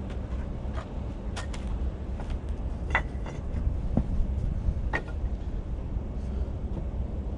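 Bricklaying work: a handful of sharp knocks and clinks of bricks and trowel, scattered about a second apart, over a steady low rumble.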